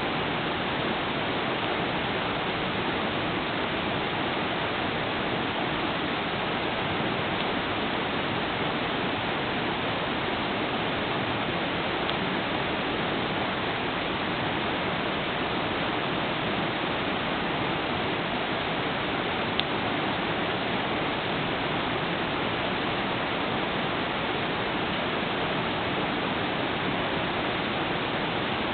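A river flowing steadily, a continuous rushing of water. One sharp pop stands out about two-thirds of the way through.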